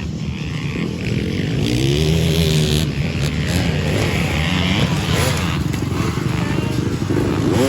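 Motocross dirt bike engines revving, their pitch rising and falling several times.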